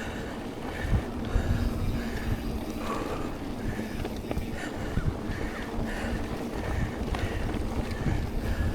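Wind buffeting the action camera's microphone while a mountain bike rolls over flat dirt singletrack, tyres rumbling and the bike rattling over small bumps. A faint high chirp repeats about once a second throughout.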